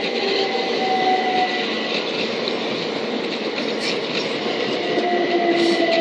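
Class 377 Electrostar electric multiple unit moving along the platform: a steady rumble of wheels on rail with a few faint whining tones.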